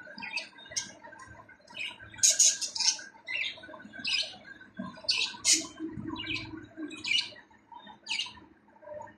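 Budgerigars chirping and squawking in short, harsh high calls, about one or two a second.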